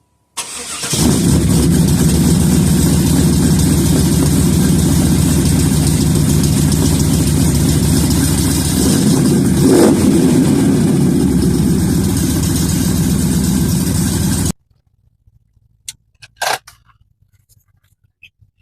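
A 1996 Chevrolet Impala SS's V8 engine starting and running steadily, with a brief rise in level about ten seconds in. The sound cuts off suddenly a few seconds before the end.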